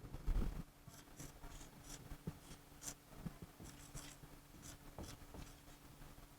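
Faint scratching of writing strokes as the lecturer draws, in short scattered strokes, over a faint steady low hum.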